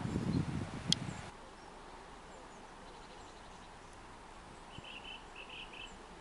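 Low rustling with one sharp click in the first second, cutting off suddenly; then quiet outdoor background with a quick run of high bird chirps about five seconds in.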